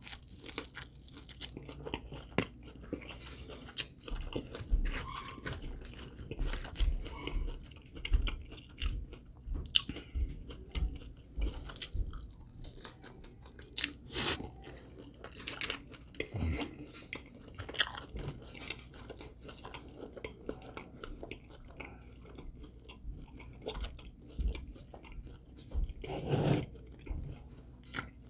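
A person chewing and biting into fried chicken wings: a run of irregular crunches and mouth clicks.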